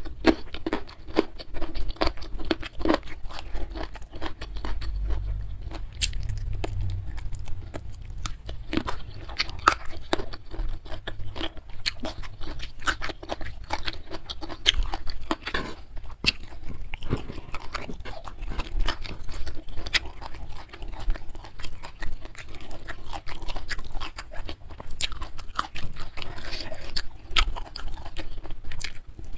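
A person chewing and crunching mouthfuls of rice, spicy beef sambal and raw side vegetables such as young jengkol and petai, close to the microphone. There are many small, irregular wet clicks and crunches.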